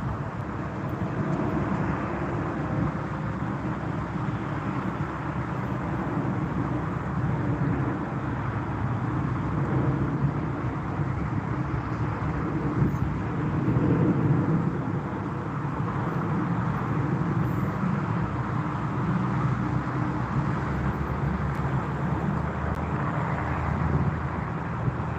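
Steady aircraft engine noise, a low rumble with a few held low tones, swelling slightly about halfway through and staying at much the same level otherwise.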